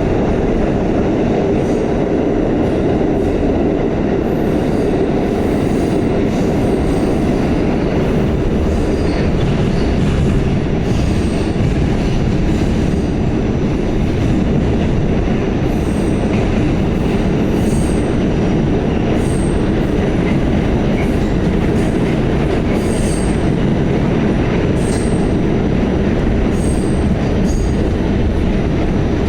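Pullman-Standard R46 subway car running at speed, heard from aboard: a loud, steady rumble of steel wheels on rail, with scattered short high clicks and squeaks from the wheels and track.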